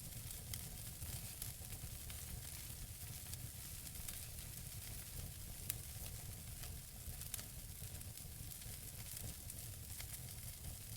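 Wood fire burning in a fireplace: a steady hiss with frequent small crackles and pops over a low rumble, with two sharper pops a little past halfway.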